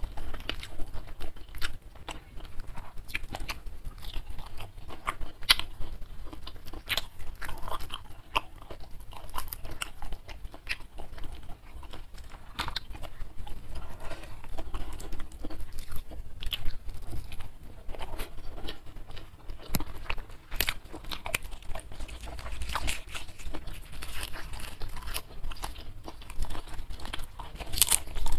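Close-up mouth sounds of someone eating by hand into a clip-on microphone: steady chewing with frequent irregular crunches, from crisp fried catfish with rice and sambal.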